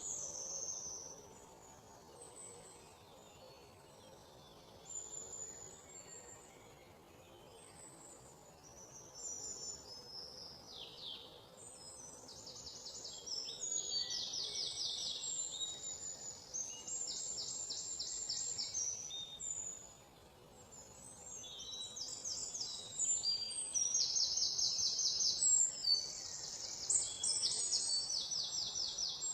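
Songbirds chirping and singing high, rapid trills. The calls are sparse and faint at first, become louder, repeated trills about twelve seconds in, pause briefly, then pick up again more strongly for the last third.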